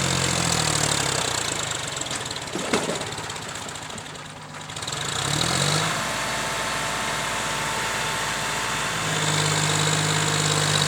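Heavy diesel engine running, its pitch dropping about a second in, then rising again a few seconds later and settling. A single sharp knock comes near the three-second mark.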